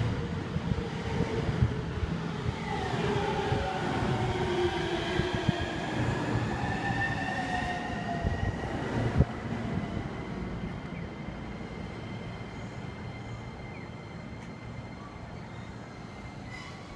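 Electric commuter train pulling in along the platform and braking: several whines fall in pitch as it slows over the rumble of wheels on rail. There is a single sharp knock about nine seconds in, then the sound settles to a quieter steady hum as the train comes to a stop.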